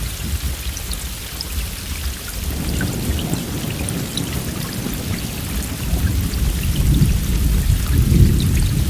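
Steady heavy rain with scattered close drop ticks, and a low rumble of thunder that builds about a third of the way in and swells to its loudest near the end.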